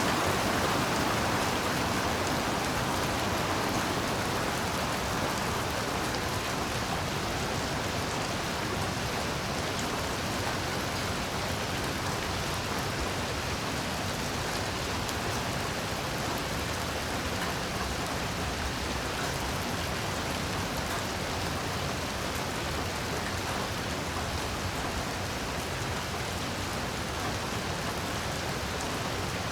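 Heavy rain falling steadily in a forest, a dense, even hiss of drops on leaves and ground, slightly louder at the start and then constant.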